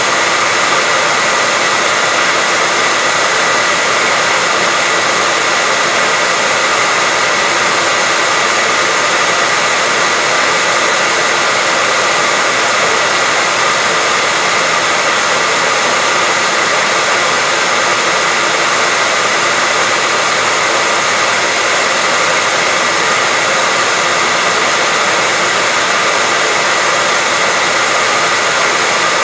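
Electric hair dryer running steadily: a constant rush of blown air with a steady whine from its motor and fan, unchanging throughout.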